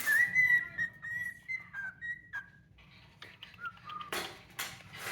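Cockatiel whistling: one long, slightly wavering note, then a few shorter, lower notes. Short harsh chirps come near the end.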